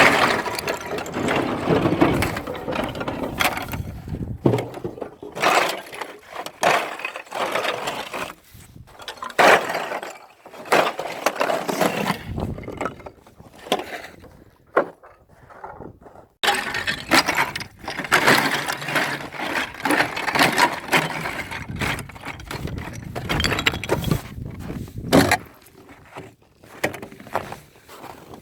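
Ice cracking and crunching in dense, irregular bursts, with a short lull about halfway through.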